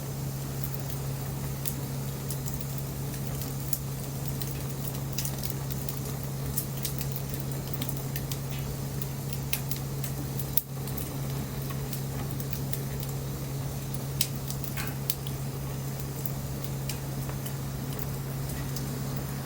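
Wood bonfire crackling, with irregular sharp pops and a brief thin hiss of steam from the wood about three quarters of the way through, over a steady low hum.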